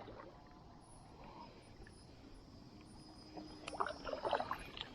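Kayak paddle strokes on calm river water, faint at first, then paddle blades dipping and dripping in a run of small irregular splashes during the second half.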